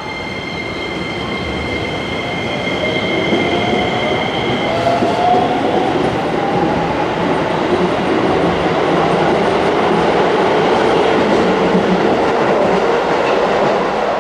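Keisei 3000 series electric train pulling out and gathering speed, its traction motor whine gliding upward in pitch while the running noise of the wheels on the rails grows louder and stays loud as the cars go by.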